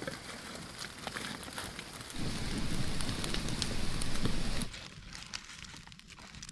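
Wood campfire crackling and popping. From about two seconds in, a louder steady noise runs under the crackle, then stops abruptly near the five-second mark, leaving quieter crackling.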